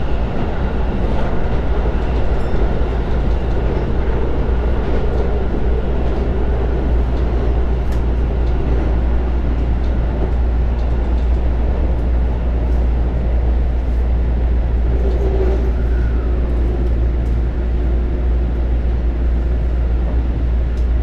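Inside a Joban Line local commuter electric train running at steady speed across a river bridge: a steady rumble of wheels and running gear, with a faint whine held throughout.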